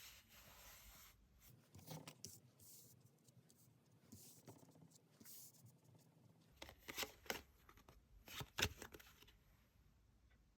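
Tarot cards being handled: faint rustling of card stock with soft taps and clicks, a few sharper snaps in the second half as cards are flicked or laid down.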